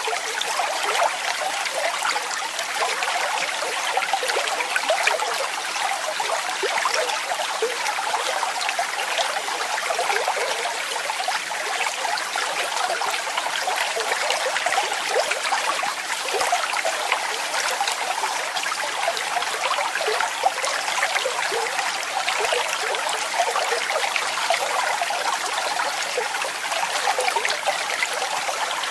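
Waterfall water splashing and running steadily, a bright, even rush with many small splashes and little deep rumble.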